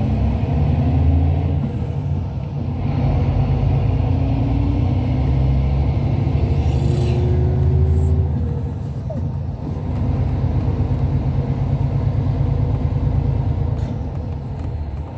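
Hyundai Universe Space Luxury coach on the move, heard from inside: a steady low rumble of engine and road that dips slightly a couple of times.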